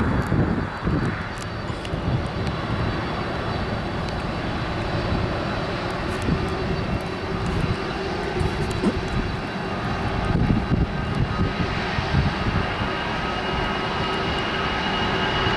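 Jet airliner engines running: a steady rumble with a high whine that grows louder over the last few seconds.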